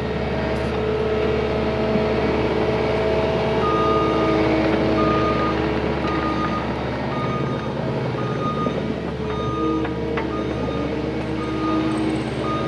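Cat 259D compact track loader's diesel engine running under load, with its reverse alarm beeping about one and a half times a second as the machine backs up, starting a few seconds in.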